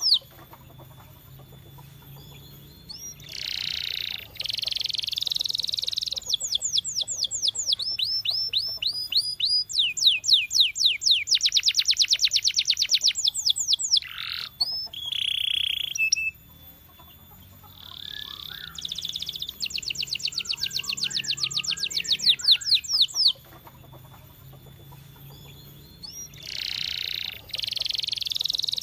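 Domestic canary singing in phrases of fast, high, repeated trills and rolls, some with held notes, separated by pauses of a couple of seconds.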